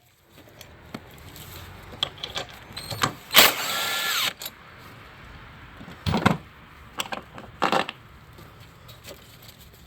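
A power tool runs in one burst of about a second, about three and a half seconds in, backing out a 13 mm bolt, with a few sharp metal clicks of tools later on.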